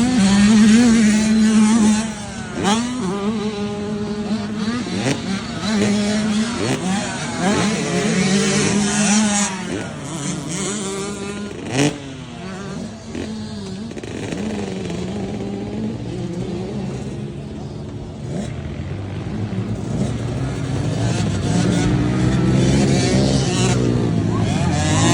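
Small youth dirt bike engines racing round a motocross track, several bikes revving up and dropping back again and again through their gears. There is a sharp crack about twelve seconds in.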